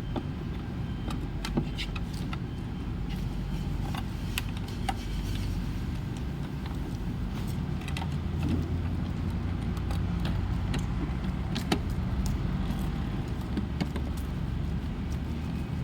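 Small plastic and metal clicks and clinks, scattered and irregular, as a replacement refrigerator control board is handled and fitted, over a steady low rumble.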